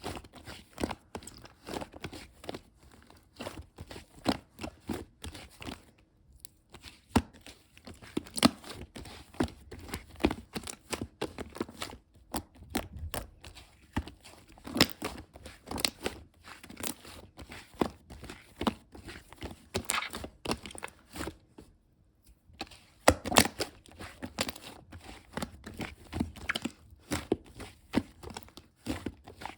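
Close handling noise: crinkling and tearing with many irregular small clicks and taps, pausing briefly a few times, loudest just after a pause about three quarters of the way through.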